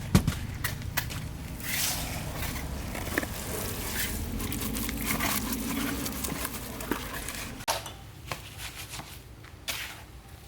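Handling of bricks and rubble: irregular knocks, clicks and crunching, with one sharp knock right at the start.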